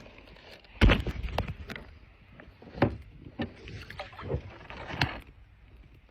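Irregular knocks and thumps on a kayak's hull, about seven of them, with the loudest about a second in, over a faint hiss of water and air. The knocks die away after about five seconds.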